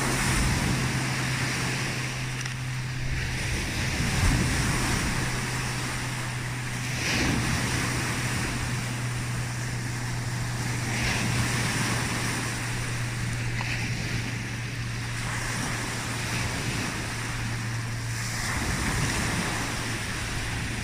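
Loud, steady rush of water crashing.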